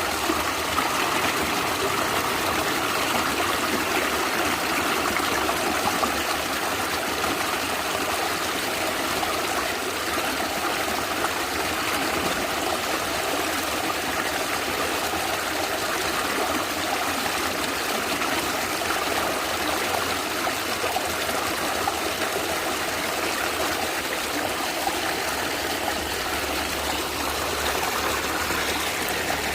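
A small stream gurgling and splashing over stones, steady and even.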